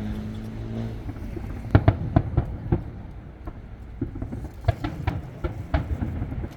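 Aerial fireworks shells bursting in a display. Several sharp bangs come in quick succession about two seconds in, and a second run comes around five seconds, over a low background rumble.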